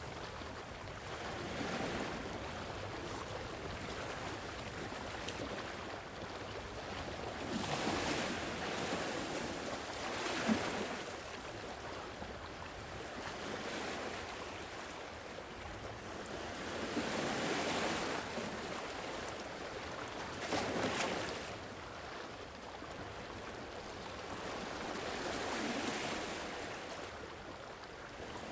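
Sea waves breaking and washing ashore: a steady hiss of surf that swells about six times, every few seconds.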